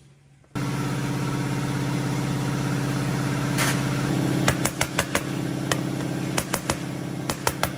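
Small lawn mower engine running steadily, starting abruptly about half a second in. Sharp ticks and clicks sound over it in the second half.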